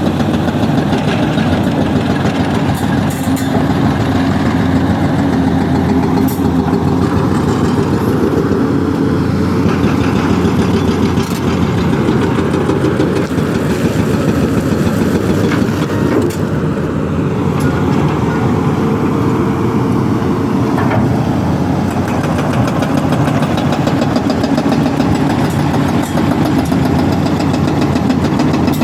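Excavator's diesel engine running steadily while the bucket is worked, with a few faint clicks scattered through.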